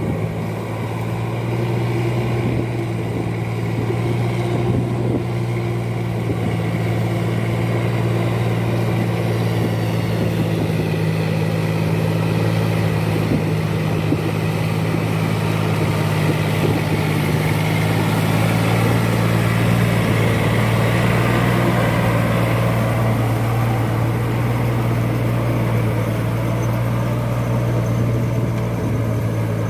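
Four-wheel rice-field tractor engine running steadily, a constant low drone with a slight change in pitch about two-thirds of the way in.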